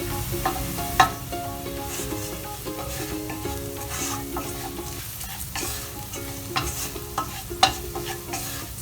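Onion and spice masala sizzling in hot oil in a pan while a spatula stirs it, with sharp clicks of the spatula against the pan, the loudest about a second in and another near the end.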